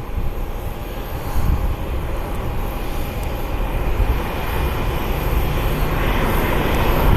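Jet airliner engines running, a steady rush with a faint thin whine, growing louder toward the end.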